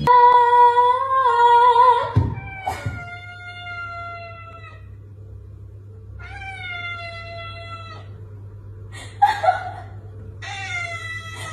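A cat meowing in several long, drawn-out calls, each one or two seconds long, with short pauses between them.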